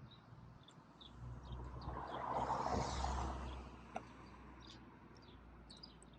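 A vehicle passing on the street, its noise rising for a couple of seconds and fading away, with small birds chirping throughout.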